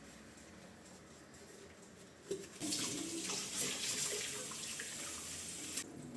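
Kitchen tap turned on a little over two seconds in, after a short knock. Water runs into the sink for about three seconds, then is shut off suddenly.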